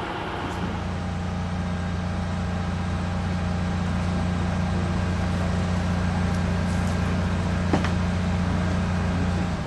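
A heavy crane engine running steadily under load during a lift, a low hum that steps up about half a second in and slowly grows louder. There is a single brief knock near the end.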